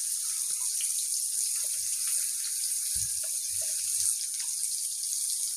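Chopped onions sizzling in hot oil in a kadai: a steady hiss, with a few soft knocks about halfway through.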